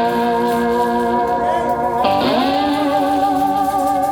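Cigar box guitar played with a slide: two long sustained notes, the second slid up into pitch about halfway through.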